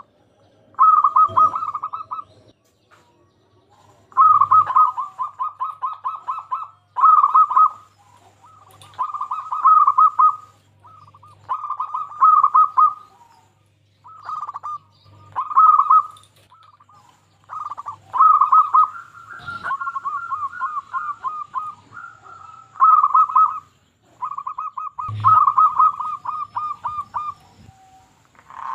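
Zebra dove cooing: a run of repeated phrases, each a quick series of pulsing coos lasting one to two seconds, with short pauses between.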